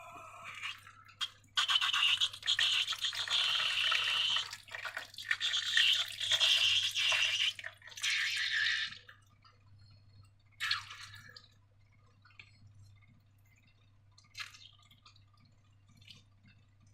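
Wet, sticky slime sounds: about seven seconds of continuous squelching and sloshing, then two short wet squishes.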